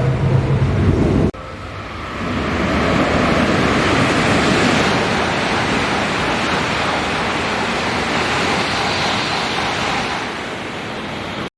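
Steady rushing noise of a train running at speed, with no clear tones in it; it swells about two seconds in and eases off near the end. A low hum at the very start cuts off abruptly.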